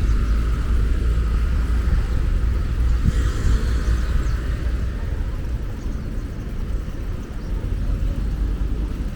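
Steady low rumble of wind and rolling noise on a camera carried while riding a bicycle.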